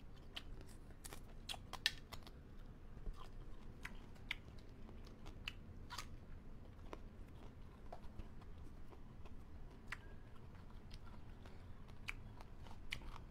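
Close-miked eating sounds of a person chewing and biting food: faint mouth noises with irregular short, sharp crunches and clicks, among them the bite into a raw green Thai eggplant.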